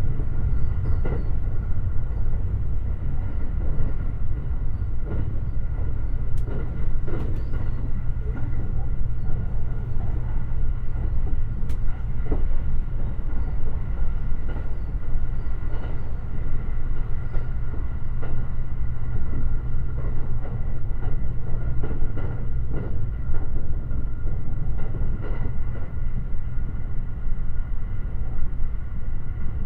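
Running noise of the Limited Express Shirasagi electric train at speed, heard from inside the car: a steady low rumble with irregular wheel clicks over the rails and two faint steady high tones.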